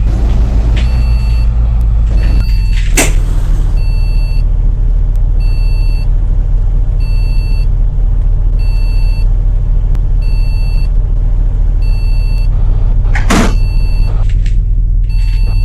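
Bus engine running loud and steady, heard from on board, its pitch shifting about two and a half seconds in. A short beep repeats about every second and a half, and two sharp hisses come about three seconds in and near the end.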